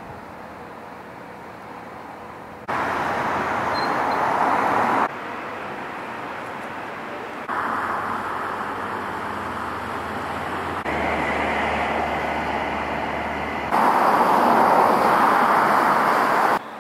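Outdoor town ambience with traffic noise: a steady rush that changes level abruptly several times where short clips are cut together.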